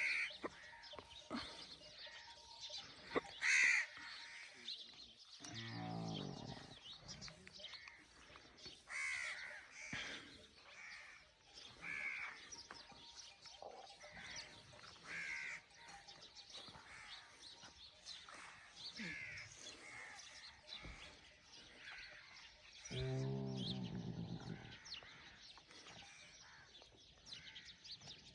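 Crows cawing repeatedly, call after call. Twice, about six seconds in and again near the end, a longer, low-pitched animal call sounds beneath them.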